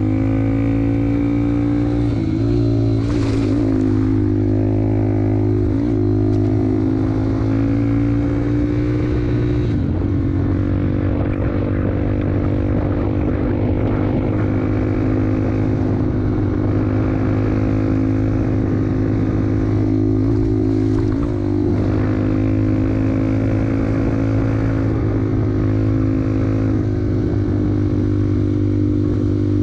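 Dirt bike engine running steadily at riding speed, its pitch wavering and dipping briefly a few times as the throttle is eased and opened again.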